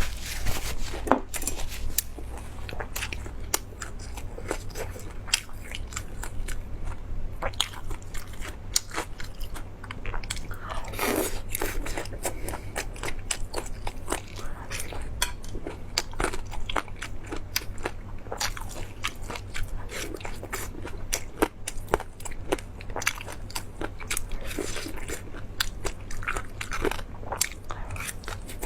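A person biting and chewing food with crunching and many short, sharp mouth clicks.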